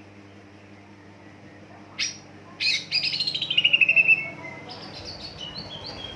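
Green leafbird (cucak ijo) singing: a sharp single note about two seconds in, then a loud, rapid trill that falls steadily in pitch, followed by softer, stepped whistled notes.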